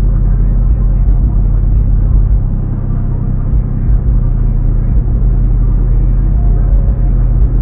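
Steady, loud low rumble of a car.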